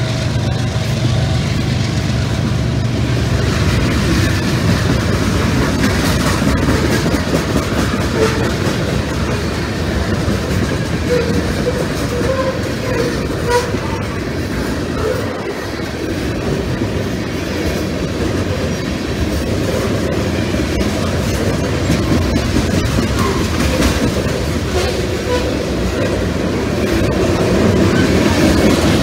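Freight train of loaded tank cars rolling past: a steady heavy rumble of steel wheels on rail with a rhythmic clickety-clack over the rail joints. The locomotives' low engine drone fades in the first couple of seconds, and a few short faint wheel squeals come around the middle.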